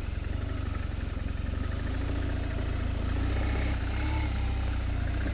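BMW R1200GS Adventure's boxer-twin engine running steadily, its low pulsing note getting a little stronger about halfway through.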